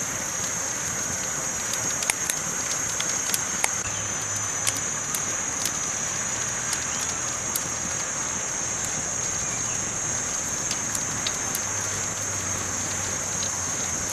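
Campfire burning: a steady hiss with scattered sharp crackles and pops, most of them in the first half.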